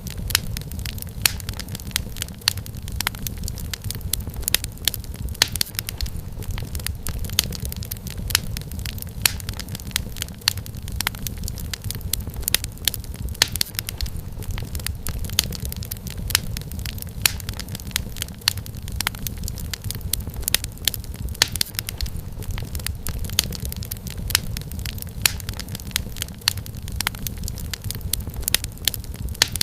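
Wood fire crackling steadily, with many sharp irregular pops and snaps over a low, even rumble of burning logs.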